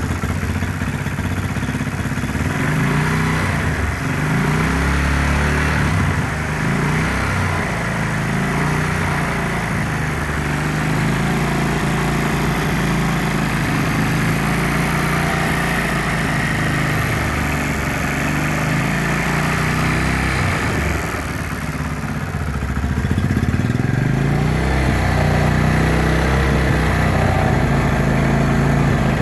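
Motorcycle engine running on an HHO-hybrid gasoline-vapour carburettor, a steady low drone. About two-thirds of the way through it dips briefly, then runs a little louder.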